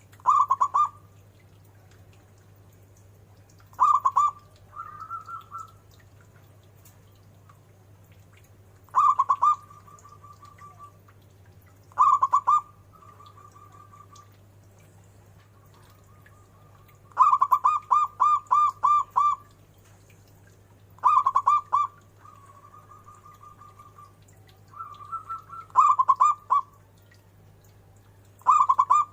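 Zebra dove (perkutut) cooing: short bursts of rapid, repeated coo notes every few seconds, with one longer run of notes near the middle. Several bursts trail off into a softer, rolling trill.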